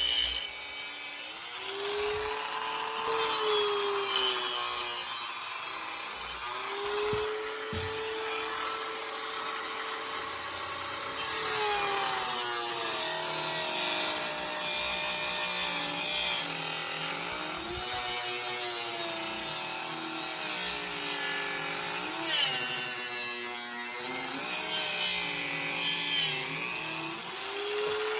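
Handheld rotary tool grinding into a wooden block, its motor whine dipping and climbing back again and again as the bit bites into the wood.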